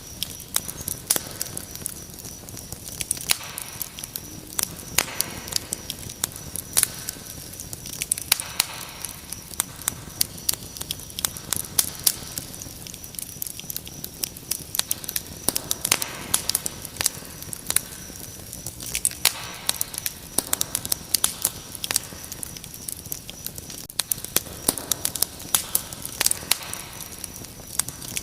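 Wood fire crackling, with frequent sharp pops and snaps, over a steady high-pitched cricket trill.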